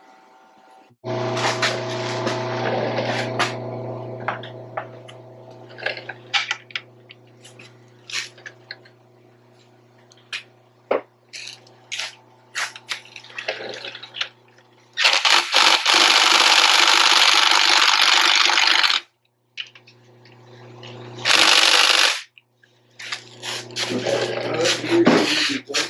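Workshop tool work on the roller's chain-case tensioners: a steady mechanical hum with scattered metal clinks and knocks, broken twice by a loud, long hiss, the first lasting about four seconds and the second about one.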